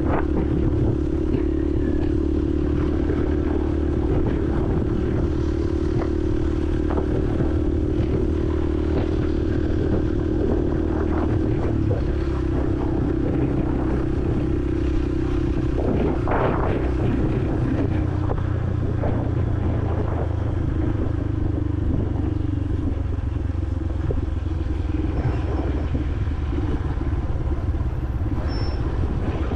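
Honda CRF150L's single-cylinder four-stroke engine running steadily while riding in city traffic, as heard from a helmet-mounted camera, with a steady rush of wind and road noise; its note drops slightly about twelve seconds in, and a brief louder noise stands out around sixteen seconds.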